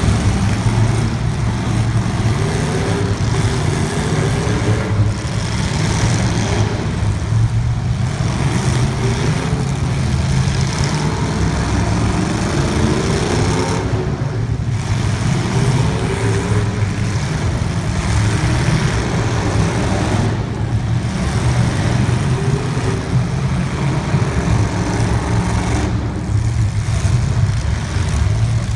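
Racing car engines running steadily, their pitch wavering up and down.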